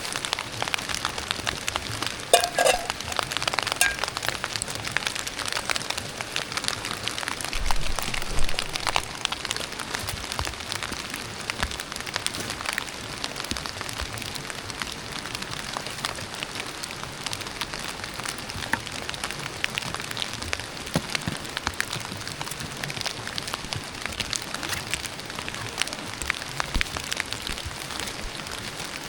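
Steady rain falling, a dense patter of drops hitting nearby surfaces, with a brief louder knock a couple of seconds in and a low thump around eight seconds in.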